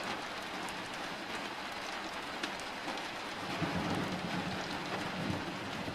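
Steady rain falling, a continuous even hiss, with a low rumble of thunder rolling through about halfway in.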